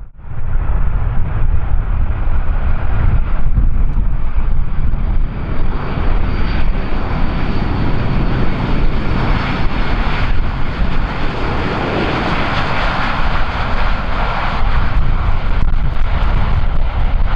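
Airliner engines running as a plane lands and rolls out: a steady high whine under a broad roar that swells through the middle and eases off near the end, with heavy wind rumble on the microphone.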